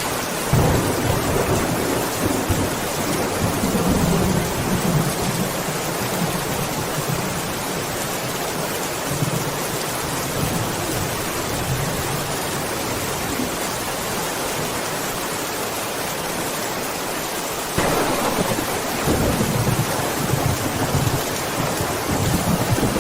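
Steady rain with thunder rumbling twice: a roll that starts suddenly about half a second in and fades over several seconds, and a second one near the end.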